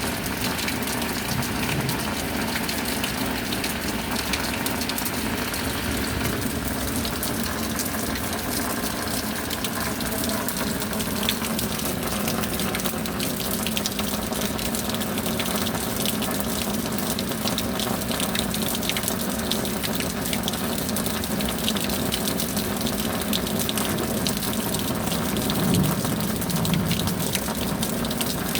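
Steady rain falling: a dense, even hiss of water with many individual drops ticking through it.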